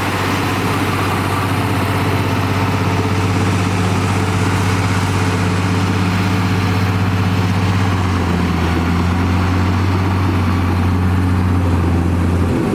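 Komatsu D58E bulldozer's diesel engine running steadily with a deep, even drone.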